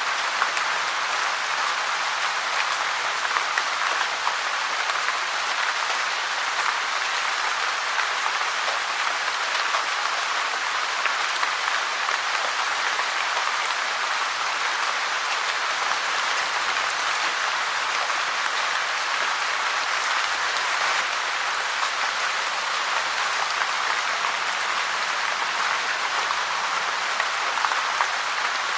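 Steady heavy rain falling, a dense even patter of countless drops.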